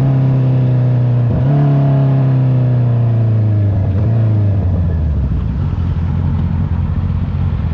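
Honda CB650R's inline-four engine through an Akrapovic exhaust, its note falling steadily as the bike slows, broken briefly twice by gear changes, then settling to a low, steady rumble about five seconds in.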